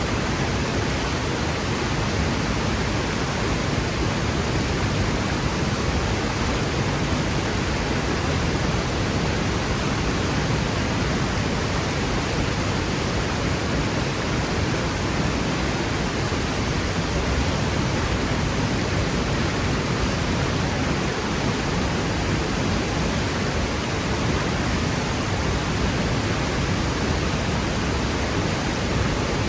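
Waterfall plunging into its pool: a loud, steady rush of falling water.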